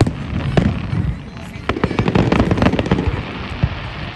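Fireworks exploding: a string of sharp bangs with rumbling echoes, thickening into a rapid run of crackling reports in the middle.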